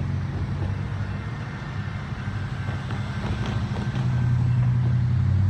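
Low, steady engine drone, growing a little louder about four seconds in, with a few faint clicks.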